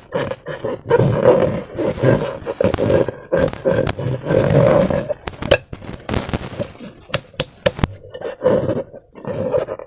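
A slime-filled rubber balloon being squeezed and worked by hand, making irregular strokes of rubbery, squelching sound that carry a steady pitched note. A few sharp clicks come in the second half.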